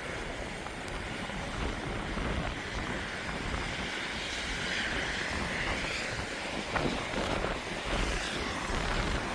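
Steady street noise of traffic passing on snowy roads, with one vehicle swelling and fading about four to six seconds in.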